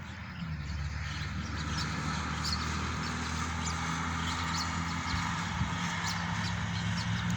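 An engine running steadily with a low hum that grows slowly louder, while birds chirp now and then over it.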